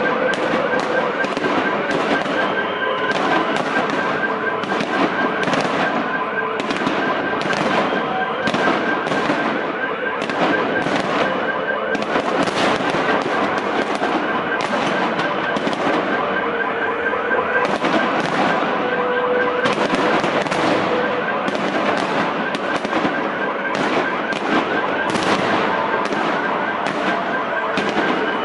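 Fireworks salute: shells bursting in a dense, continuous barrage of bangs and crackles, several a second, with a brief lull about ten seconds in. A high, rapidly warbling tone runs underneath most of the way.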